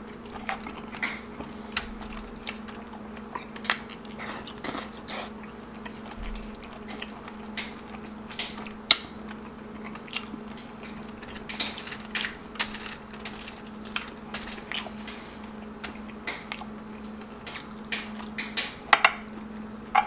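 Close-miked wet chewing and lip-smacking of a man eating soft stewed beef and rice by hand, with many small mouth clicks and smacks throughout, a few louder ones near the end. A steady low hum runs underneath.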